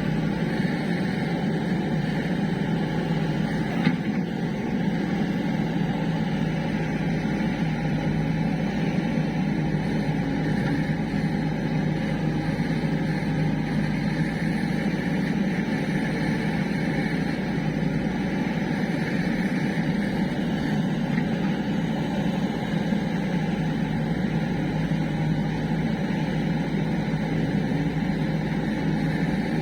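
Heavy diesel machine engine running steadily at an even speed, with one short sharp click about four seconds in.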